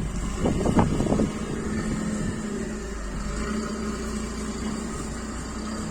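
Forklift running with a steady mechanical hum, and a short rattling clatter about half a second in.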